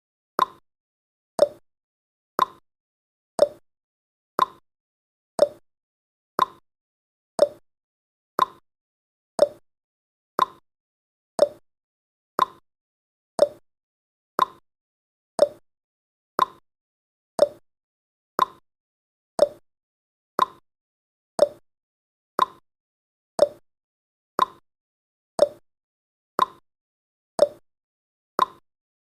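Countdown timer tick sound effect: one short click every second, evenly spaced.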